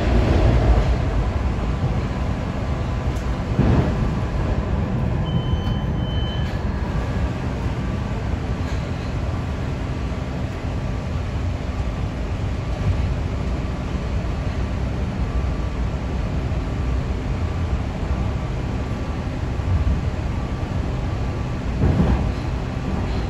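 PATCO rapid-transit train running along the track, heard from inside the front car: a steady rumble of wheels and motors. A brief high tone sounds about five seconds in, and there are louder knocks about four seconds in and near the end.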